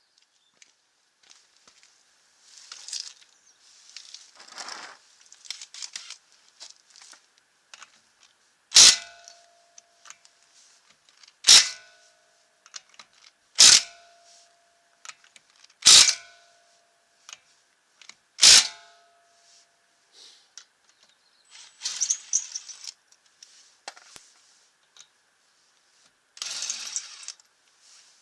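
Five sharp metal clinks, two to three seconds apart, each ringing briefly: steel lug nuts set down one at a time onto a metal surface during a wheel change. Lighter metallic rattling and jangling before and after.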